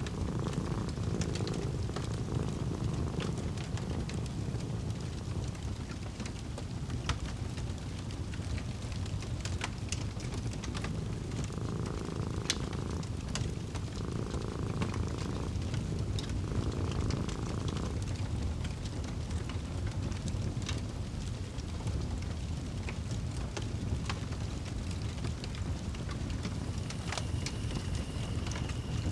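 Fireplace crackling: scattered sharp pops and crackles over a steady low rumble of burning wood. A cat purrs in slow, repeating cycles near the start and again from about twelve to eighteen seconds in.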